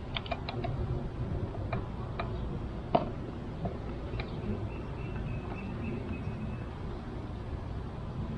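Wooden hive frames and hive tool handled during a beehive inspection: scattered light clicks and knocks, the loudest about three seconds in, over a steady low rumble.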